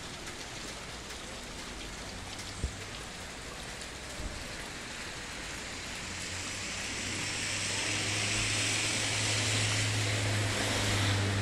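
Heavy rain falling on the street, a steady hiss that grows louder over the second half. A low steady hum runs underneath, strongest near the end, with a couple of faint clicks early on.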